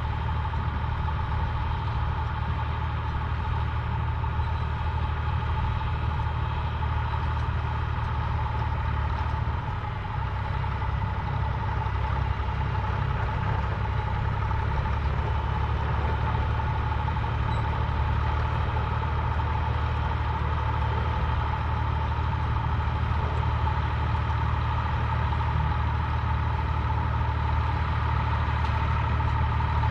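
Tractor engine running at a steady speed, with a steady higher whine over the low engine note.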